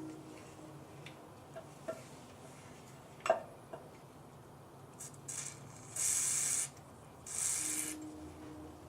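Small metal distributor parts being handled on a workbench: a few light clicks, one sharp knock a little past the middle, then two short hissing bursts near the end.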